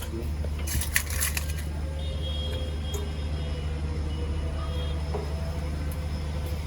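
A steady low engine drone, like a generator running in the background, with a brief rattle of handled metal parts about a second in.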